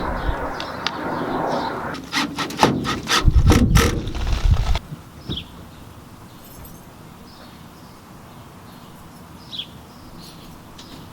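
Parts and tools being handled: rubbing and scraping, then a loud run of knocks and clatter from about two to five seconds in. After that it goes quiet apart from a couple of short high chirps.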